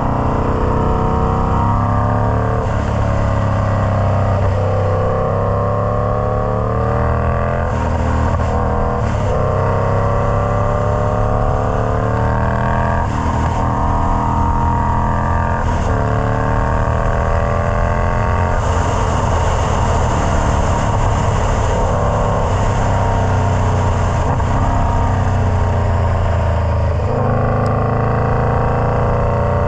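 Indian Scout Bobber's V-twin engine running loud and steady through a Freedom Performance Combat 2-into-1 exhaust. A deep steady tone sits under higher tones whose pitch climbs and drops back every few seconds.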